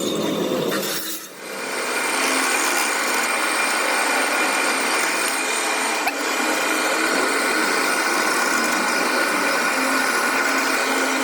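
A power tool running steadily on the metal of a motorcycle wheel hub, settling in about a second in after a brief lull, with one short click near the middle.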